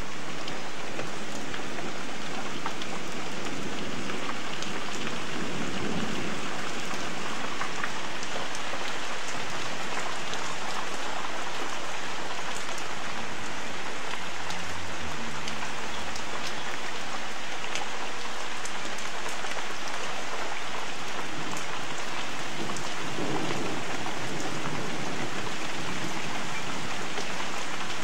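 Heavy rain falling steadily, spattering on puddles and hard ground, with a low rumble about halfway through.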